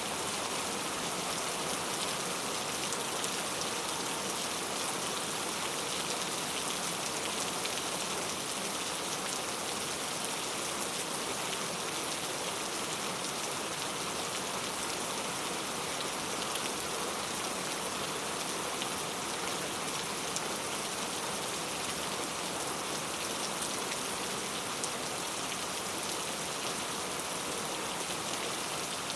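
Heavy rain falling steadily, a dense even hiss of many drops striking the surfaces.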